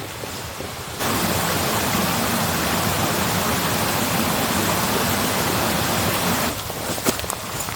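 A steady, loud rushing noise, like wind or running water, that cuts in sharply about a second in and stops just as abruptly about five and a half seconds later.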